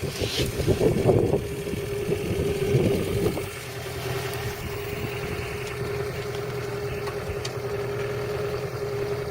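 A boat's engine running at a steady idle-like hum, with some louder, irregular noise over it for the first three seconds or so.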